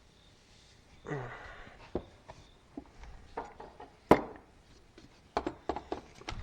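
Scattered clinks and knocks of metal tools being handled and set down, the loudest about four seconds in, with a quick run of clicks near the end.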